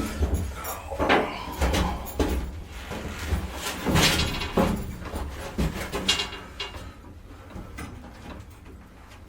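An irregular series of knocks, bumps and creaky scrapes as the fiberglass motor-home roof shell and its wooden cribbing are shifted during the crane lift, over an uneven low rumble. The knocking is busiest in the first seven seconds and then dies down.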